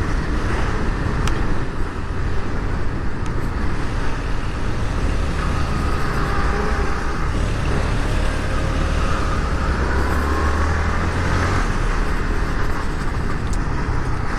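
Motorcycle running steadily on the road, with wind rushing over the rider's microphone and surrounding traffic.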